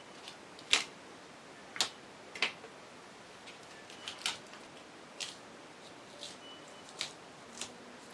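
Irregular sharp taps and clicks, about a dozen of them with uneven gaps, over a steady faint hiss.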